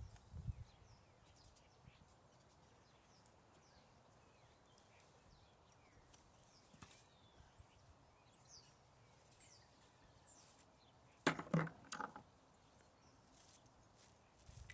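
Small birds chirping faintly and repeatedly in short, high, gliding calls, with a quick cluster of a few loud knocks and scrapes about three quarters of the way through.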